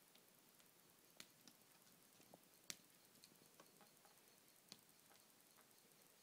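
Near silence broken by faint, irregular small clicks and ticks, about a dozen, the sharpest one nearly three seconds in.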